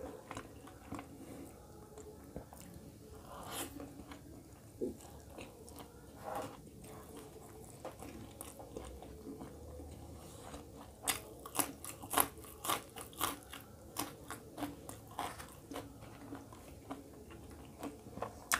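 Close-up chewing of a mouthful of roti and egg curry. From a little past halfway come repeated sharp, crisp crunches as a raw green chili is bitten and chewed.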